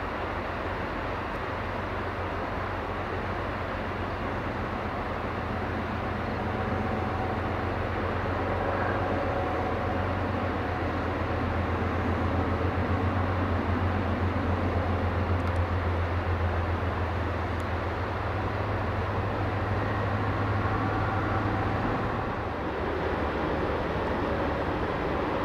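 Diesel freight locomotives working a train, a steady low engine drone over the rumble of the train. The drone swells through the middle and eases off briefly near the end.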